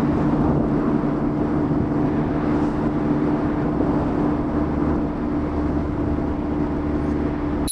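Mazda MX-5's 1.5-litre four-cylinder engine running at a steady, unchanging pitch, with a steady hiss of road and wind noise. A short high ding sounds at the very end as the sound cuts out.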